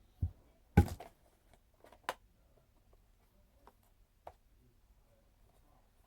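Parts of a Kirby G4 upright vacuum being handled: a dull thump, then a loud knock about a second in, a sharp click near two seconds, and a few lighter clicks after that.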